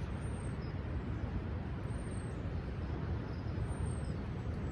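Steady outdoor rumble of wind and rough sea surf. Over it come three or four faint, very high, thin calls at intervals of about two seconds.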